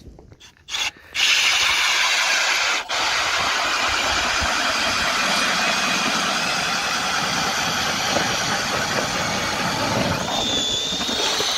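Power ice auger running and drilling a hole through thick lake ice: a loud steady motor noise that starts about a second in, drops out briefly, then runs on, with a higher whine near the end.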